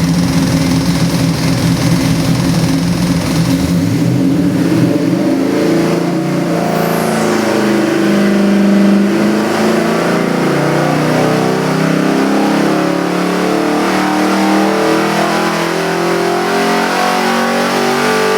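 Chevy 454 big-block V8 crate engine running loud, holding a steady speed for the first few seconds, then revved up and down repeatedly.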